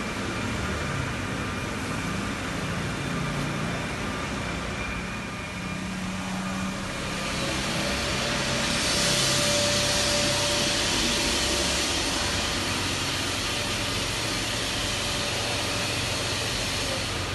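BMW N20 turbocharged four-cylinder petrol engine running steadily. A hissing rush swells about halfway through and then eases a little.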